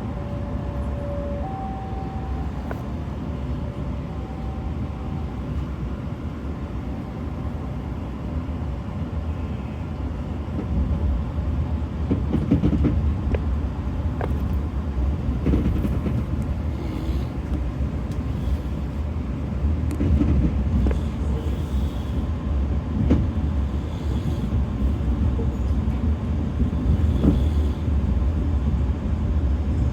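Passenger train running at speed, heard from on board: a steady low rumble with irregular knocks and clatter from the wheels and carriage, which grow louder about twelve seconds in.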